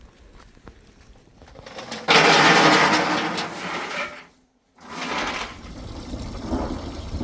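Rushing water noise, as of heavy rain or floodwater: faint at first, then loud and steady from about two seconds in. It cuts to silence briefly just after four seconds and returns quieter.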